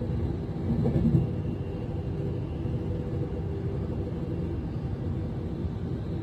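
Cabin running noise of a Class 390 Pendolino electric train in motion: a steady low rumble of wheels on rails, with a brief louder bump about a second in.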